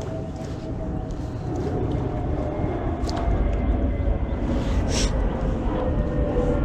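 Low engine rumble, steady and growing louder, with faint steady tones above it and a couple of short clicks.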